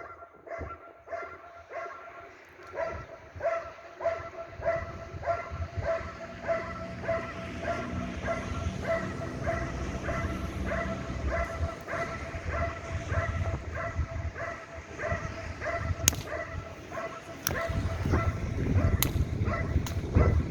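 Dog barking in a steady, even rhythm, about two barks a second: guard barking at the helper during protection training. Three sharp cracks come over the barking in the last few seconds.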